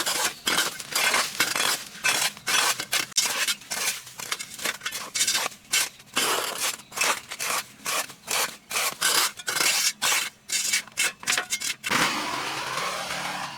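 Rapid rubbing and scraping strokes, about two or three a second with short pauses between runs. About twelve seconds in, the strokes stop and a steady rushing noise takes over.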